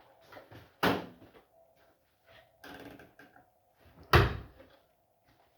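Two loud thumps about three seconds apart, like a door or panel being shut, with small clicks and a brief rattle between them.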